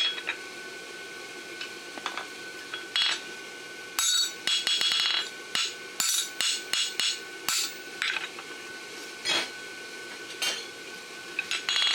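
Farrier's hammer striking a steel horseshoe on an anvil in groups of blows, with pauses between them. A steady high tone runs underneath.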